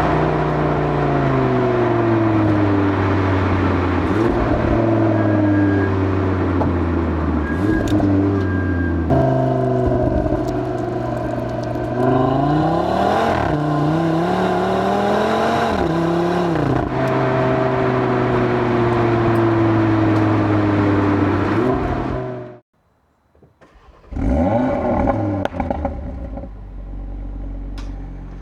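Audi RS3's 2.5-litre turbocharged five-cylinder engine driven hard, its pitch stepping and sweeping up and down as it revs and shifts through gears. A little over three-quarters of the way through, the sound cuts out suddenly for about a second and a half before the engine note comes back, rising.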